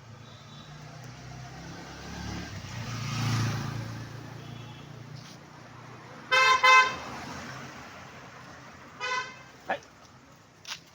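A motor vehicle passes with a low engine rumble that builds and fades over the first few seconds. A vehicle horn then toots twice in quick succession, with a third short toot a couple of seconds later.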